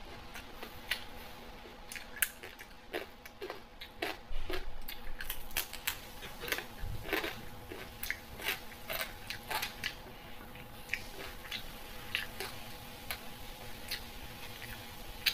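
A person eating: irregular crunchy bites and wet chewing sounds, over a faint steady hum.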